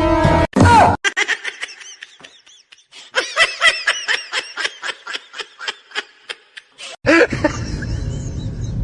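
Laughing in a quick string of short, high-pitched bursts, about four a second. About seven seconds in it cuts to another clip with a louder, denser sound.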